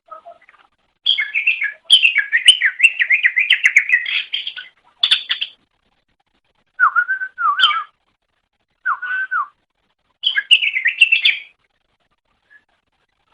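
Cucak ijo (green leafbird) singing in bursts of rapid, varied warbling phrases with short chirps and whistles. One long run of song comes in the first few seconds, then shorter, lower phrases follow, and a last burst comes near the end.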